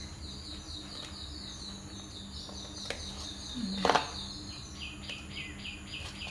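A bird calling with a rapid run of repeated high notes, about four a second, that steps down to a lower pitch about two-thirds of the way through. A single sharp knock comes a little before four seconds in, over a low steady hum.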